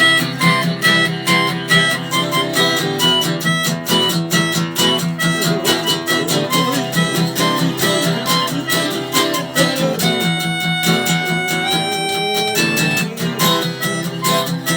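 Live band playing an instrumental passage with no vocals: guitar strummed in a fast, even rhythm. About ten seconds in, a melody instrument holds a few long notes over the strumming for a couple of seconds.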